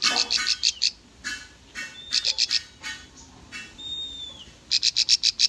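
Bar-winged prinia (ciblek) singing: clusters of rapid, sharp, high chirps repeated in quick bursts, with a single thin whistled note about four seconds in that dips in pitch at its end.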